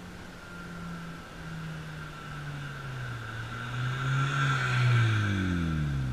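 2013 Honda Civic Si with an aftermarket AP muffler and the factory resonator driving past, its four-cylinder exhaust note growing louder to a peak about five seconds in, then dropping in pitch as the car goes by.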